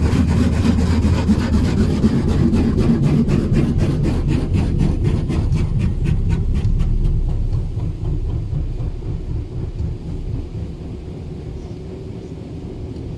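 Touchless automatic car wash spraying high-pressure water over a truck: a loud rumbling rush with a rapid, even pulsing that fades out after about seven seconds.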